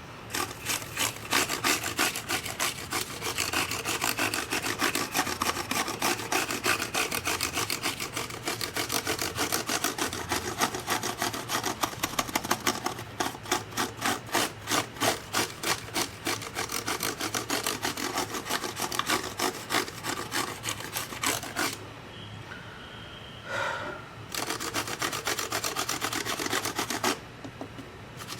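Quick back-and-forth scrubbing strokes, several a second, rubbing over a hard surface while the dust-clogged MacBook Pro is cleaned. The strokes pause briefly twice near the end.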